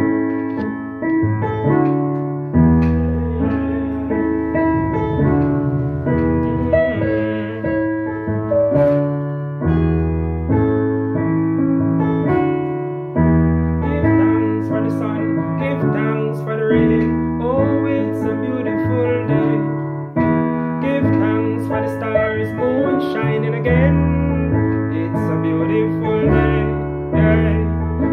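Keyboard playing slow, sustained chords over low bass notes, the harmony changing every second or two, as the introduction to a chant.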